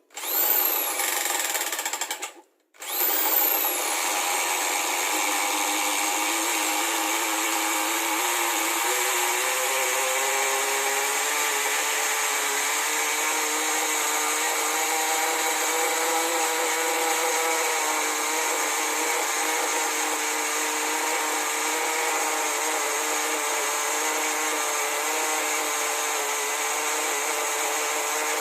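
Go .15 nitro engine of a 1/10 Bigfoot RC truck being started for its run-in after a rebuild: two short bursts that cut out, then it catches about three seconds in and runs steadily at a high-pitched idle.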